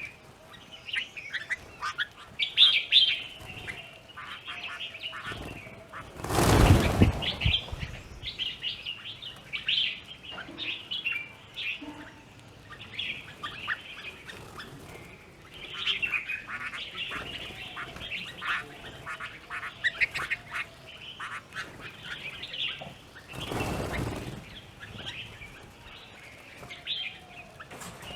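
Plum-headed parakeets and Himalayan bulbuls chirping and chattering at a feeding spot: a steady stream of short, high calls. Twice, about a quarter of the way in and again near the end, a brief loud rushing burst rises over the calls.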